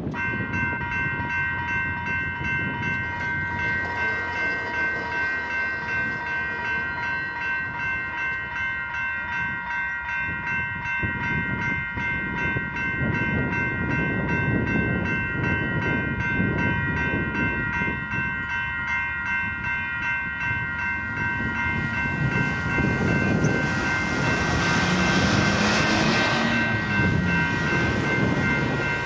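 Four BNSF diesel locomotives working hard in notch 8 (full throttle) on a steep upgrade, pulling a long, heavy train. There is a deep engine rumble under a steady high-pitched whine, and the sound grows louder and hissier about three-quarters of the way through as the units pass closest.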